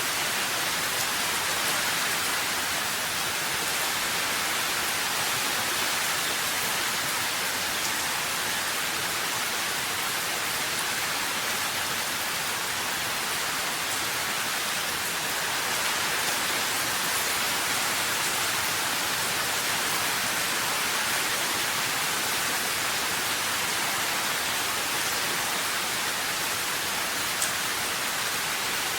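Steady rain falling, an even hiss without break or change.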